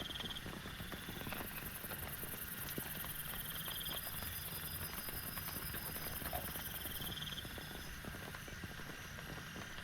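Rain falling steadily, with many separate drops ticking through the hiss. A short high pulsed trill repeats about every three and a half seconds over it.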